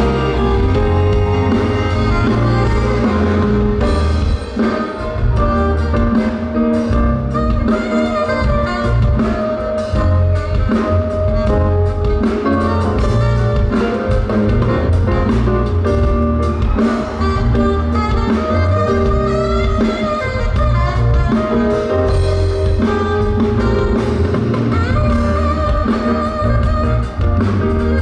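Live concert band music played loudly over a PA, with a drum kit keeping a steady beat under sustained instrumental lines.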